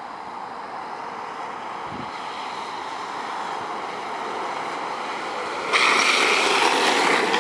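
Rushing wind noise and the roll of longboard wheels on asphalt, slowly growing louder. It jumps suddenly louder a little before the end.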